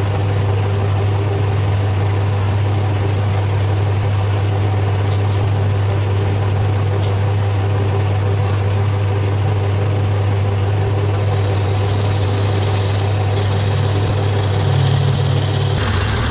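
Metal lathe running steadily with a low, even motor hum while a 12 mm drill bores into the workpiece; the sound takes on more high-pitched noise about eleven seconds in.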